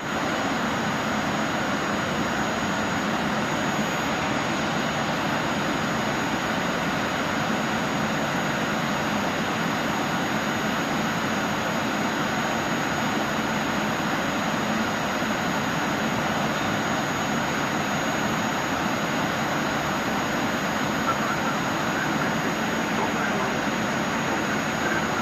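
Steady rush of jet engine and airflow noise inside a Boeing 737 cabin in flight, with a faint thin high whine above it.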